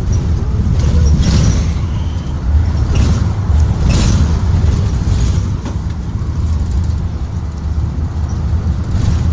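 Blue Bird Vision school bus under way: a steady low rumble from engine and road, with a few rattles about a second in and again around three and four seconds.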